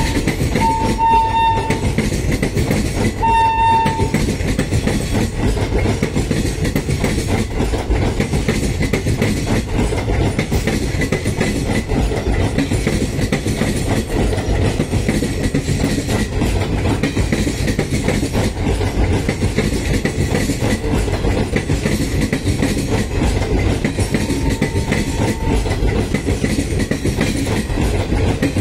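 Passenger coaches and parcel vans of an Indian Railways train rumbling past close by, wheels clacking over the rail joints. The train's horn sounds in two short blasts in the first few seconds and once more, faintly, near the end.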